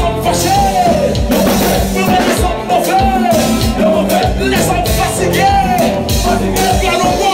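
Live Haitian konpa band playing, with a sung lead melody over drums and bass keeping a steady beat.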